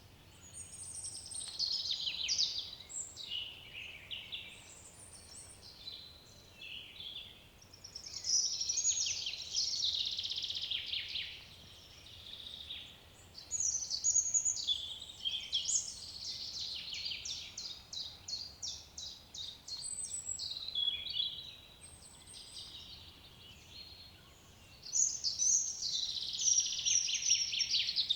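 Songbirds singing in phrases of a few seconds with short pauses between them. Midway there is a long run of fast, evenly repeated notes.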